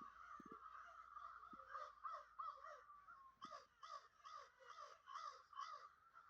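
Birds calling, faint, in a run of short harsh calls, several a second, overlapping as from a group.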